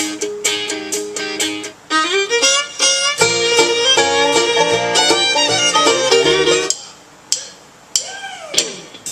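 Music with a string melody playing through the restored 1953 Chevrolet truck radio's speaker from its auxiliary input. The music stops about seven seconds in, and a short gliding tone that rises and falls follows near the end.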